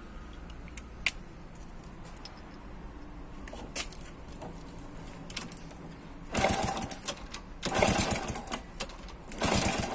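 An old motorcycle engine is turned over and sputters in three short bursts of about a second each, starting about six seconds in, with a fast uneven rhythm. A sharp click comes about a second in.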